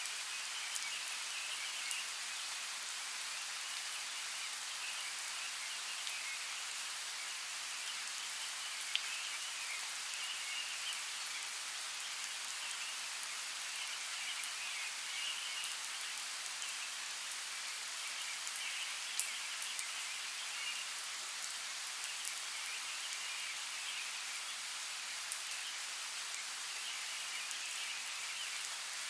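Steady rain falling, with scattered sharp ticks of single drops striking, and a faint chirring chorus behind it that swells and fades.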